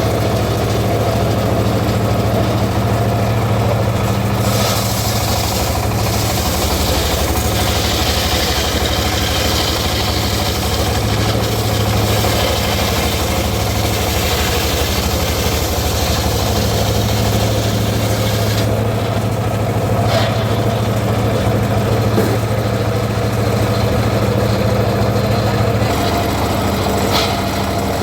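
Engine of a homemade circular-saw rig running steadily. A louder high hiss rises over it from about four seconds in and stops near eighteen seconds.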